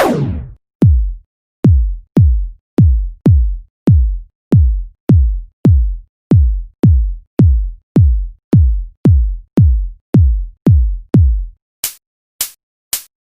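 Electronic drum-machine kick hits repeated about twice a second, each a deep thump that drops quickly in pitch. Near the end they give way to a few short, sharp clicks.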